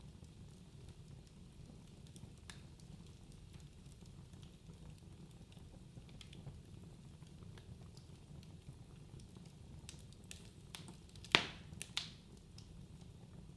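Wood fire burning in a fireplace: a low steady rumble of flames with scattered small crackles, and two louder pops near the end.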